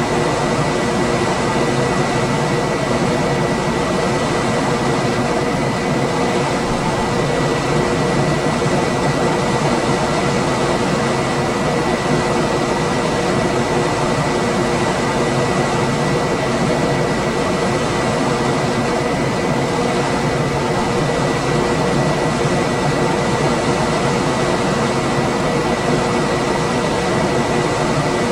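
Room air conditioner running steadily: an even rush of fan air with a steady low hum and a faint high whine held on one note.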